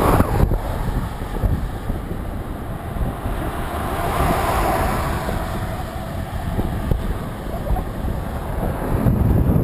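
Wind buffeting the microphone while riding a bicycle beside highway traffic, a steady rushing noise. Passing traffic swells and fades about four to five seconds in.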